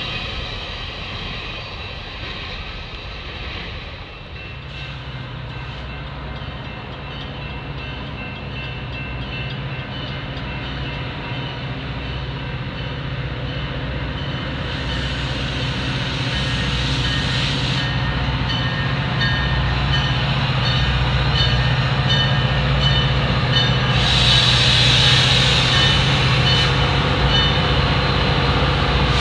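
The last well cars of a freight intermodal train rolling past, then a Metra F40PH diesel locomotive with its EMD two-stroke engine bringing a commuter train in, its steady drone growing louder as it approaches. A grade-crossing bell rings throughout.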